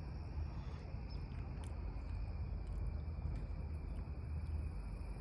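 Steady outdoor background: a low rumble with a faint, steady insect drone above it.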